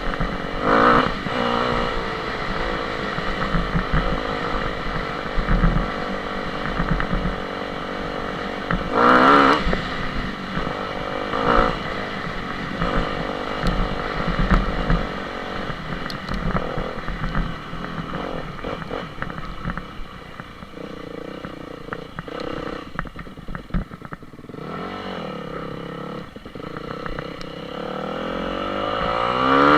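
Dirt bike engine running, revving up and down with the throttle. It eases off and runs lower and quieter for a stretch past the middle, then climbs in a long rising rev near the end as the bike accelerates.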